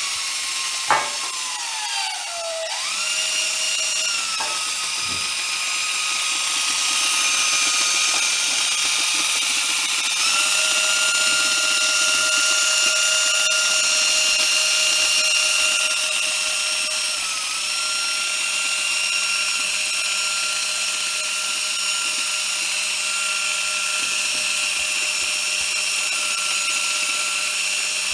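DeWalt drill spinning a brass wire brush against old glue and glass: a steady motor whine whose pitch sags briefly under load about two seconds in and again past halfway.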